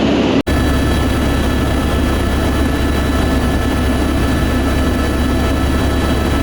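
Helicopter in flight, heard from inside the cabin: steady loud rotor and turbine noise with a deep hum and a few thin high whines. The sound cuts out for an instant about half a second in.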